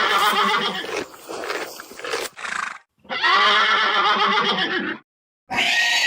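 Horse whinnying: one neigh trailing off about a second in, then a second full whinny from about three to five seconds. A different animal call starts near the end.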